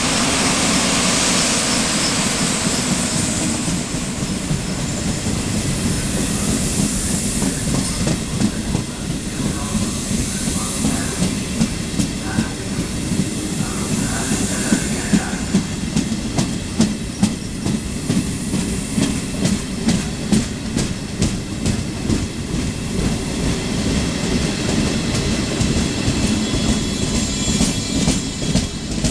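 A train running through a station: a steady rumble, with the clickety-clack of wheels over rail joints growing into a regular run of clacks through the second half.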